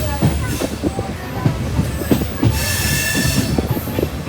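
Train wheels running on the rails with irregular knocks and clatter, and a high metallic squeal of wheels on the track from about two and a half seconds in to near the end.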